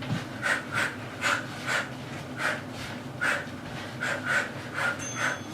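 A person breathing hard with sharp, forceful exhalations: about a dozen short puffs in a quick, uneven rhythm, deliberately loud breaths pushed out with each kickboxing punch and knee strike.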